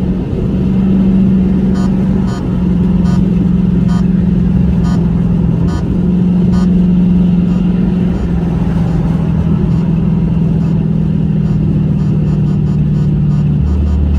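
Car engine running steadily at low revs, its drone shifting slightly in pitch a few times, with a few faint clicks over it.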